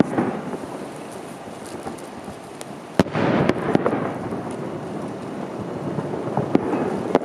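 Fireworks: one sharp bang about three seconds in, followed by a rolling rumble that dies away over a couple of seconds, with a few fainter pops before and after.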